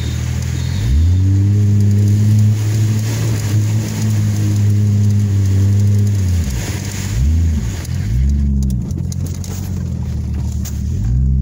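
Off-road vehicle engine revving while driving through mud: the revs climb about a second in and hold, drop off, come up in two short blips, then climb again and cut off suddenly near the end.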